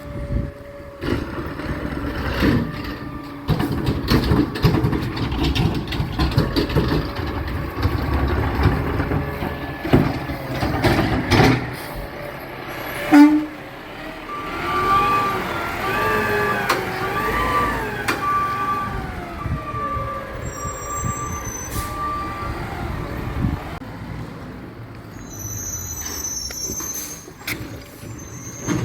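Garbage truck at work: engine rumble with knocks and clanks, then one loud bang. After it the engine rises and falls in pitch under load while the backup beeper sounds in even pulses for about eight seconds.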